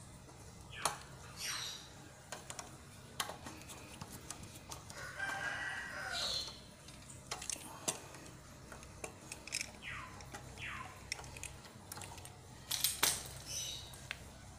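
Birds calling in the background, several short calls that fall in pitch. Light clicks and taps come now and then as wires and a screwdriver are worked on a compressor's pressure switch.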